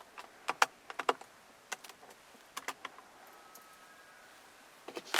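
Light, irregular clicks and taps, about a dozen, from buttons on a car's overhead roof control panel being pressed.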